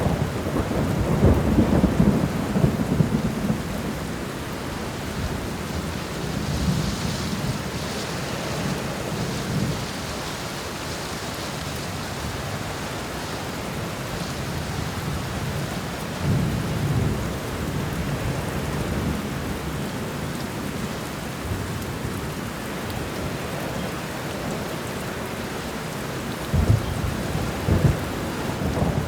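Steady rainfall with low rolling thunder that swells and fades several times: near the start, about a third of the way in, just past halfway, and in sharper rumbles near the end.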